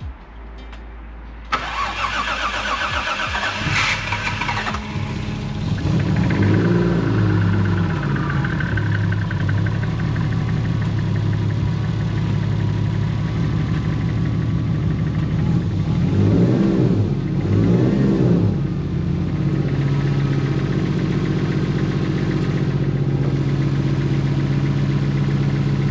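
Turbocharged Toyota 1JZ straight-six cranked and firing up about a second and a half in, then running with a couple of short revs before settling to a steady idle. It is the first start after work meant to cure a recurring misfire.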